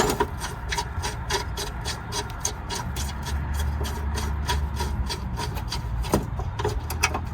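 Hands working plastic trim parts and wiring by the hood switch: a run of small clicks and rubbing scrapes, over a steady low hum.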